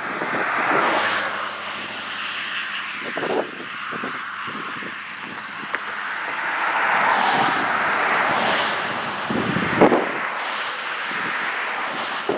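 Traffic passing on a nearby highway, the tyre and engine noise swelling and fading as vehicles go by, with wind buffeting the microphone in gusts, the strongest near the end.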